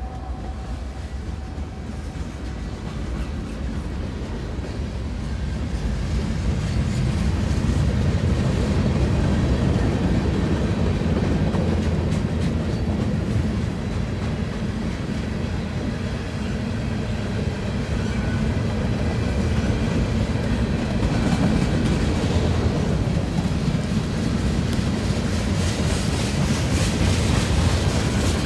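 A train rolling past, its cars rumbling steadily and the wheels clicking over the rail joints; the sound grows louder over the first several seconds.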